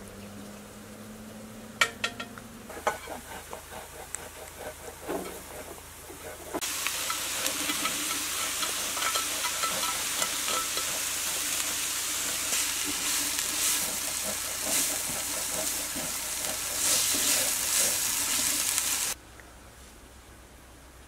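Diced green bell pepper and grated onion frying in oil in a pan, a loud steady sizzle with stirring, which starts suddenly about six seconds in and cuts off near the end. Before it, a few sharp clinks and knocks of kitchen utensils.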